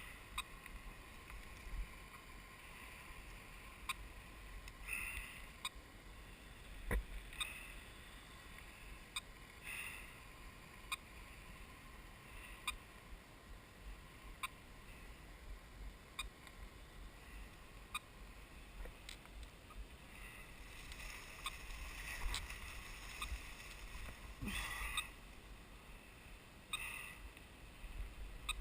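Footsteps and brush rustling as a person walks through forest leaf litter and undergrowth: uneven crunches and swishes of vegetation with scattered small snaps.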